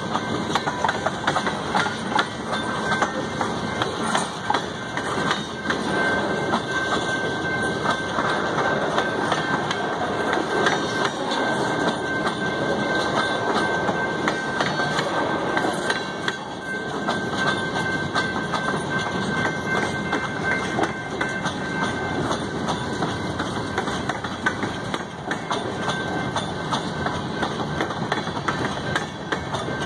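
A mixed freight train's cars rolling past at a grade crossing: tank cars, a centerbeam flatcar and covered hoppers. It is a steady rumble with wheels clicking over the rail joints, and a thin steady high tone runs through it.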